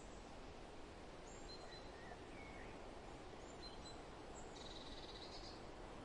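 Faint steady background noise with a few thin, high chirps from small birds and a short, fast buzzy trill about five seconds in.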